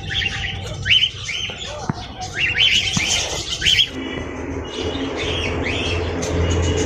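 Many birds calling in repeated short, falling chirps and squawks. About four seconds in, the calls thin out and a steady background of music takes over.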